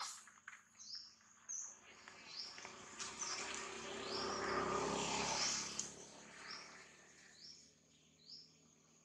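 A bird repeats a short, high, rising chirp at an even pace, about one and a half a second. In the middle a broad rushing noise swells up and fades away again over several seconds.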